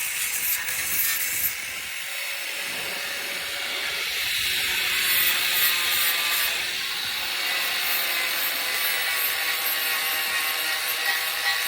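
Small handheld grinder running against the fender, a steady whine mixed with gritty grinding noise.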